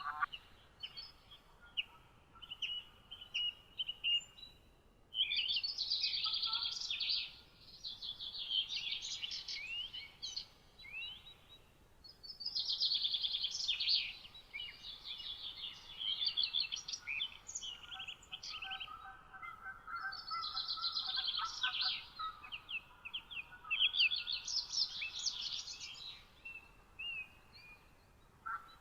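Songbirds singing a morning chorus: long phrases of rapid, high warbling notes, each lasting a couple of seconds, repeating with short pauses between them.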